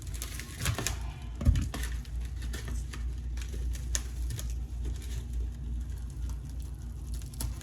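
Frozen chicken wings and their packaging being handled and pulled apart: irregular clicks and knocks, the loudest about one and a half seconds in, over a steady low hum.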